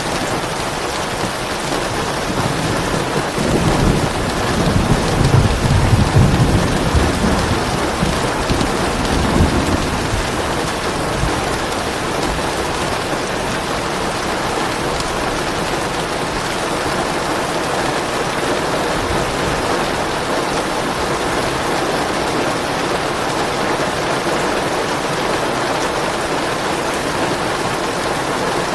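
Steady heavy rain, with a low roll of thunder from about three seconds in that swells and fades out by about ten seconds.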